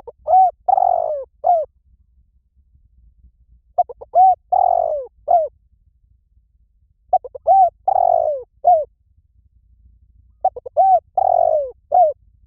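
Spotted dove cooing: the same phrase four times, about three and a half seconds apart, each made of a few short coos, one longer falling coo and a short final coo.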